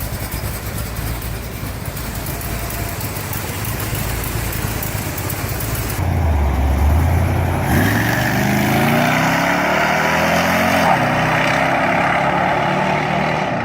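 1970 Plymouth Cuda's 440 Six Barrel V8 running through a stainless Accurate Exhaust system with Magnum mufflers and resonators: a steady low rumble for about six seconds, then it gets suddenly louder and the engine note climbs in pitch for a few seconds, dips briefly and climbs again near the end.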